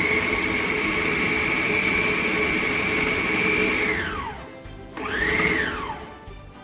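Food processor motor grinding minced chicken into a fine paste: a steady high whine that winds down with falling pitch about four seconds in, then a short second pulse that spins up and falls away again.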